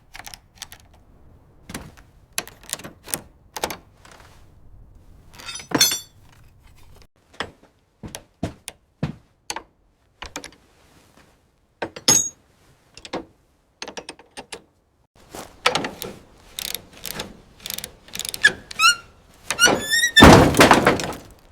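A long series of separate sharp knocks and thunks, some carrying short high squeaks, growing busier and loudest just before the end.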